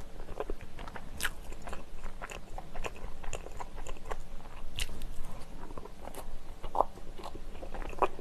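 Close-miked eating of soft cream-cheese brioche: biting and chewing with many short mouth clicks.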